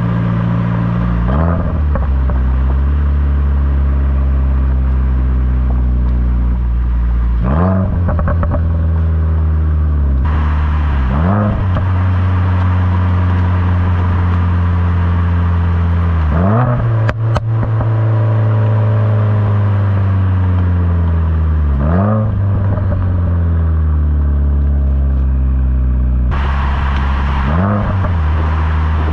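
Subaru WRX's turbocharged flat-four through a Borla S-Type exhaust, slowing in gear with quick rev-matching throttle blips on downshifts, about six times. Short pops and crackle from the exhaust follow a couple of the blips.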